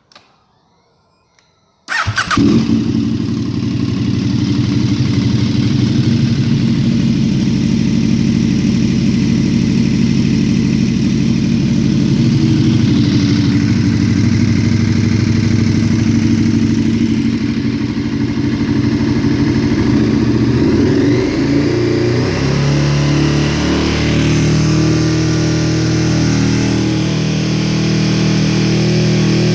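KTM 1290 Super Duke R Evo's V-twin, breathing through full titanium headers and the stock muffler, starts suddenly about two seconds in and then runs steadily with a deep, rumbling exhaust note. About two-thirds of the way through, its pitch steps up as the engine is revved.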